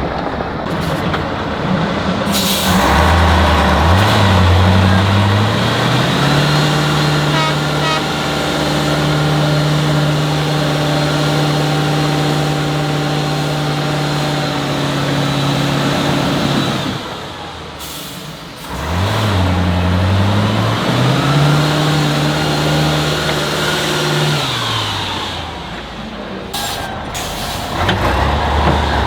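Heavy off-road trial truck engine revving hard. It climbs to high revs about three seconds in and holds there for about ten seconds, drops away, then revs up and holds again before falling off near the end.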